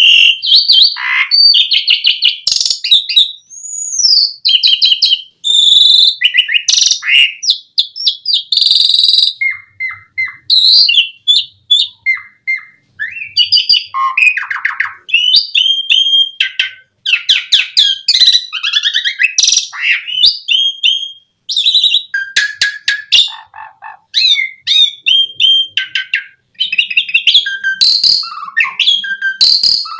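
A pied starling (jalak suren) singing continuously: a loud, varied song of whistles, fast trills and harsh chattering phrases with only short pauses.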